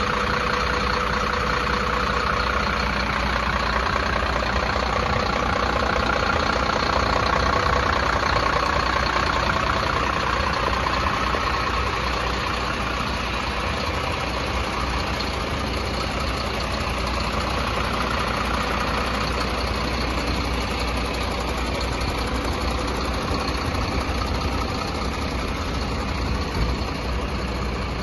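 Diesel engine of a 2009 Mercedes Axor 2633 concrete mixer truck idling steadily.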